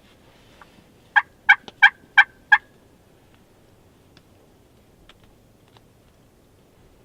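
Turkey calling: a quick series of five short, sharp, loud notes, about three a second, lasting about a second and a half.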